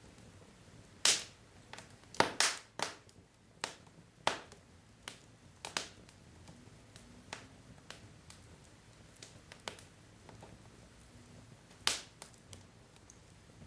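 Wood fire crackling: irregular sharp pops and snaps from burning logs over a faint low hiss, with louder pops about a second in, at two to two and a half seconds, and near the end.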